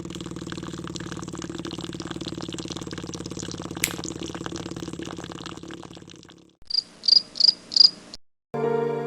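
Small electric motor of a miniature tractor water-pump build running with a steady, fast-fluttering buzz, fading out about six seconds in. Then four short, high chirps in quick succession.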